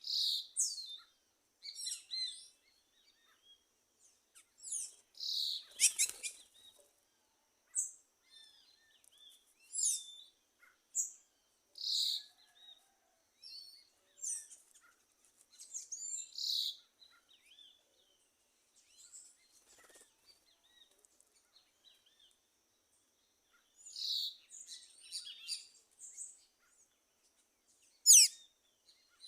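Several wild birds calling: short, high chirps and whistled notes come one after another with brief pauses between them. One sharp, loud call comes near the end.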